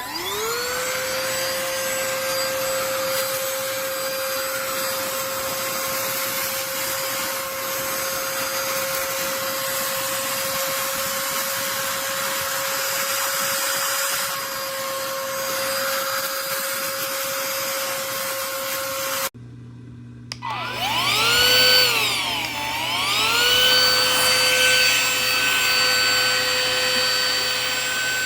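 BISSELL AeroSlim cordless handheld vacuum running: its motor whine spins up at the start and holds a steady pitch. About 19 s in it cuts off abruptly, then comes back with the pitch dipping and recovering twice before it steadies again.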